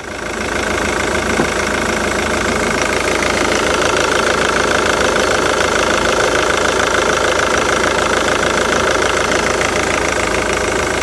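Jaguar X-Type 2.2 diesel engine idling steadily with an even, rapid clatter and a steady high tone over it: the engine noise under diagnosis, which appears when the A/C is switched on and is put down to the auxiliary drive.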